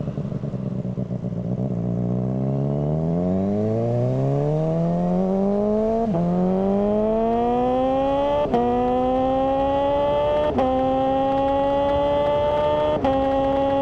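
Suzuki GSR600's inline-four engine through a GPR Ghost aftermarket exhaust, accelerating from low revs with the note climbing steadily. It shifts up four times, about two seconds apart, each shift a brief click and dip in pitch before the engine climbs again.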